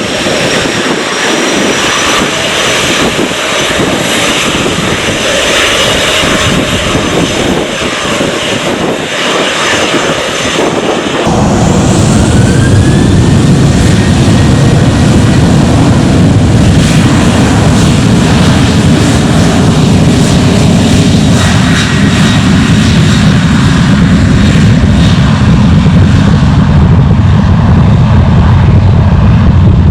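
Boeing 737-800 jet engines: first a steady jet noise with a faint high whine, then after a sudden change about eleven seconds in, a much louder, deeper rumble from a departing 737-800.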